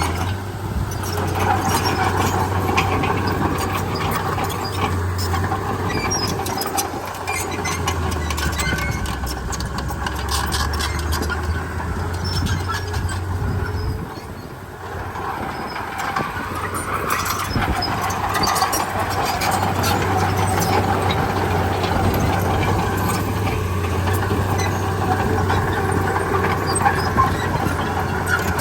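A Komatsu D31P bulldozer's diesel engine runs steadily while it works, with higher squealing tones and metallic clanks from its tracks. The sound dips briefly about halfway through, then picks up again.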